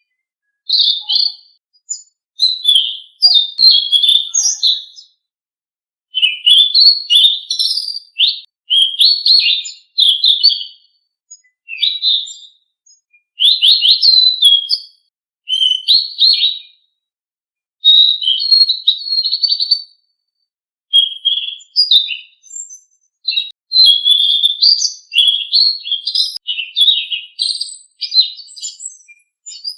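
Selendang Biru songbird singing: loud, high, rapid twittering and chirping phrases, each a second or two long, repeated with short pauses between them.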